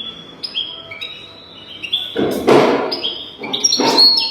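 European goldfinch singing: a quick run of short, high twittering chirps and slurred notes, broken twice, about two and four seconds in, by a loud harsh noisy burst.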